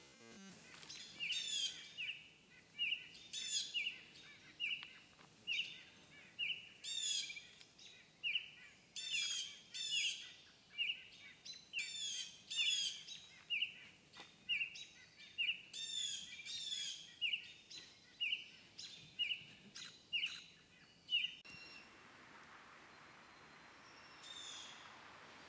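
Birds calling over and over in short, sharp notes about every two-thirds of a second, with louder clusters of higher calls every second or two. The calls stop suddenly about three-quarters of the way through, leaving a faint hiss.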